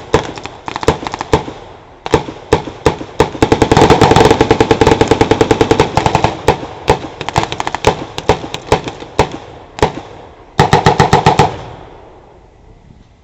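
Blank-firing small arms in a re-enacted firefight: scattered single shots and short bursts, with a long automatic burst about four seconds in and another shorter one near the end, after which the firing dies away.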